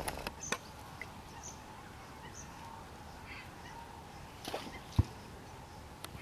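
Faint, short bird calls over a steady background hiss, with a few clicks near the start and a single sharp thump about five seconds in.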